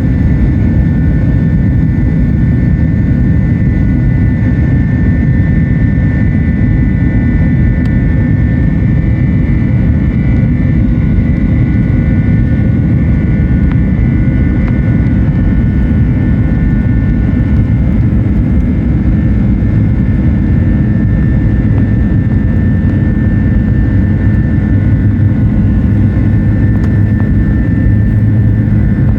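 Airbus A330-200 jet engines and airflow heard inside the cabin: a loud, steady rumble with a faint high whine held at an even pitch.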